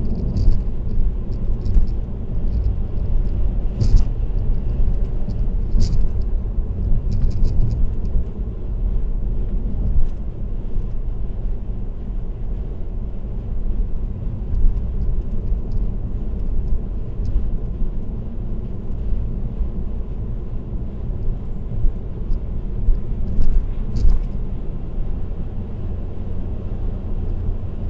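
Steady low rumble of road and tyre noise from a car cruising on an expressway, with a few brief faint ticks.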